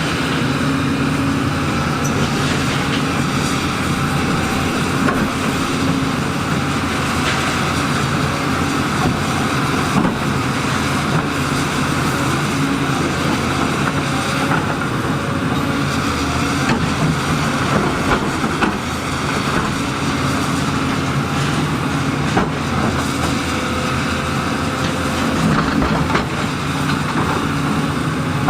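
Heavy tracked earthmoving machine's diesel engine running steadily under load, with occasional clanks and knocks of metal and rock.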